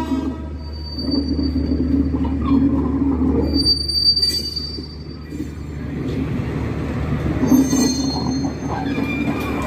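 Broad-gauge passenger coaches rolling slowly along the track with a steady rumble, their wheels giving short high-pitched squeals a few times.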